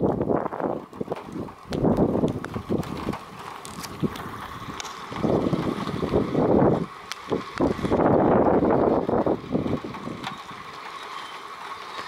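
Gusty wind buffeting the microphone outdoors, coming in irregular rumbling surges that swell and fade every second or two, with a faint steady high tone underneath.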